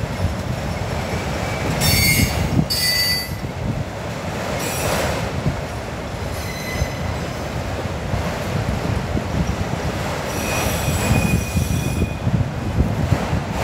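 Freight train cars rolling past: a steady rumble of steel wheels on rail, with several short high-pitched wheel squeals and one longer squeal near the end.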